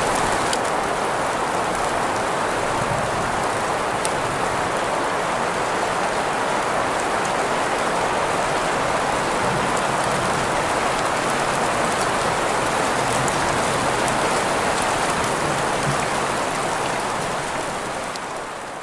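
Rain-sound recording mixed with green noise: a steady hiss centred in the middle range, with scattered small drop ticks. It fades out over the last few seconds.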